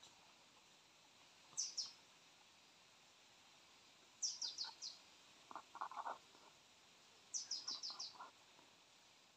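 A bird calling in short bursts of quick, high notes that each fall in pitch, three times, with two, then four, then five notes. A lower, stuttering run of calls comes between the second and third bursts, over a faint forest hiss.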